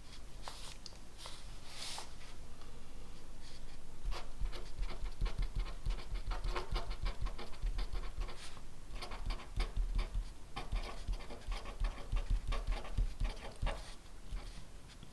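Pen writing on paper: a few scattered scratchy strokes at first, then steady, rapid writing from about four seconds in.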